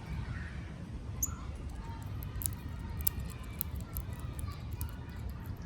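Outdoor garden ambience: a few faint, short bird chirps over a steady low rumble, with many sharp little ticks scattered through it.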